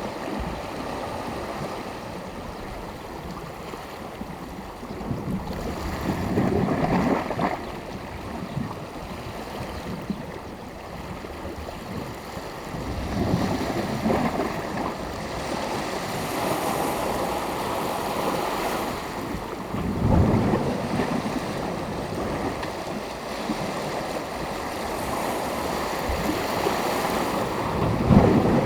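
Sea waves breaking on the shore in a continuous wash of surf, with louder waves rushing in at intervals of several seconds.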